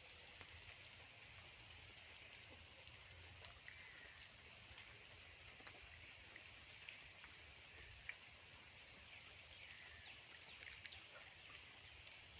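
Faint, steady rain with scattered drips.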